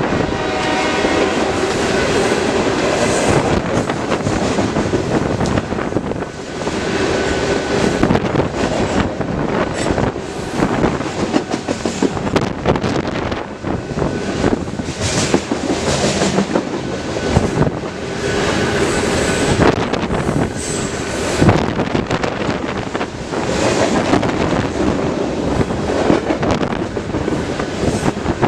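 BNSF freight train rolling past, its wheels clattering over the rail joints over a continuous rumble, with a train horn trailing off in the first second or so.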